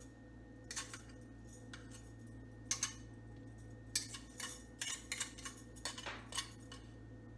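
A metal utensil clinking and scraping against a cast iron skillet in scattered short strokes, scraping meatloaf fat into the pan.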